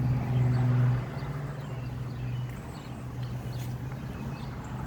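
Window air conditioners running: a steady low compressor and fan hum, louder for about the first second, with faint scattered ticks over it.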